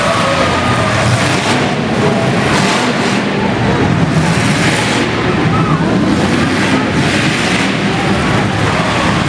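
Demolition derby cars' engines running and revving in a loud, steady din, with voices mixed in.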